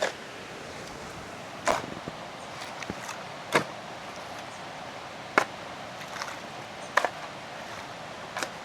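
Six sharp, evenly spaced knocks, about one every two seconds, from a hand tool striking hard material during stonework, over a steady rushing background.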